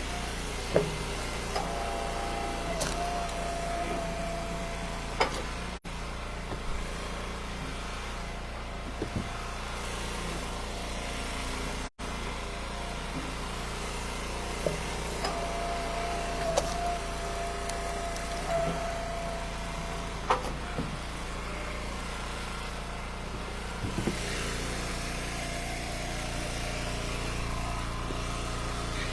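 Eastonmade Ultra hydraulic wood splitter's engine running steadily, with a higher whine held for a few seconds twice as the ram works, and scattered knocks of split ash wood.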